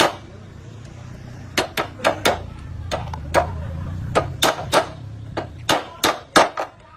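Hammer blows, about a dozen sharp, irregular strikes, over a low steady hum that swells in the middle and fades near the end.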